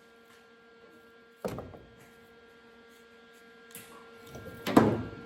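Two sharp clunks of workshop handling noise over a steady electrical hum. The first comes about a second and a half in; the second, near the end, is louder and rattles on for a moment.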